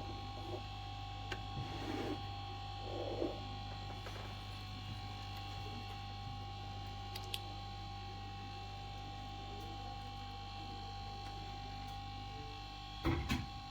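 Steady electrical mains hum from bench equipment, with a few faint clicks and a short clatter of handling noise near the end.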